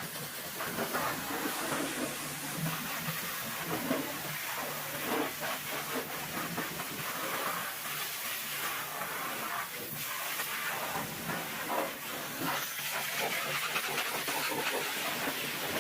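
Pressure washer jet spraying water onto a muddy truck: a steady hiss with irregular spattering, over a faint steady low hum.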